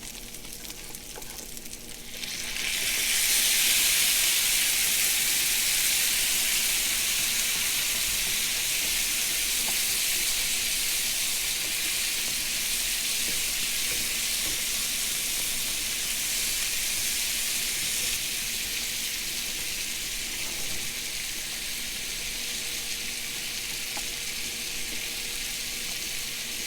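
Polish sausage, onions and green peppers frying in a skillet. About two seconds in the sizzle jumps much louder as pineapple goes into the hot pan, then eases off slowly.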